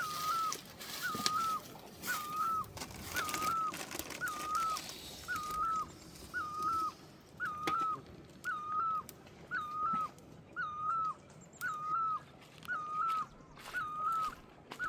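An animal call: a short high note that bends up then drops, repeated very evenly about twice a second, with scattered faint clicks behind it.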